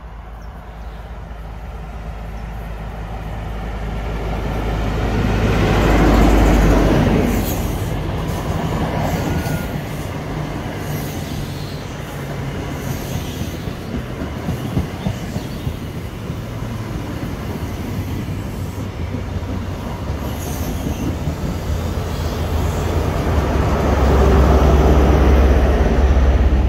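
CrossCountry InterCity 125 (HST) passing, hauled by two Class 43 power cars with MTU V16 diesel engines. The leading power car's engine swells to a peak about six seconds in, then the coaches run by with a steady rumble of wheels on rail. The rear power car's engine rises again near the end.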